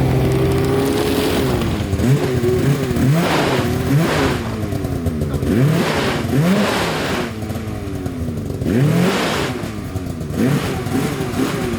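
Snowmobile engine revved again and again in short throttle blips, each one rising and falling in pitch, after a steady hum in the first second or so.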